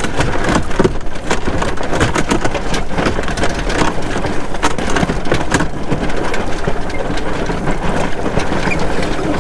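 Loud, steady rush of wind and water aboard a small trimaran sailboat under way, broken by many sharp splashes or knocks.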